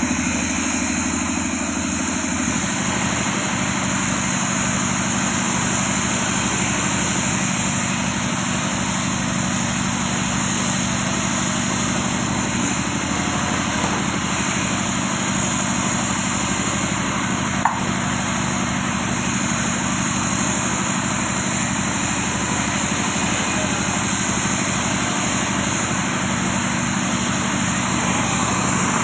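A small electric motor running steadily with a constant hum, and a single click about eighteen seconds in.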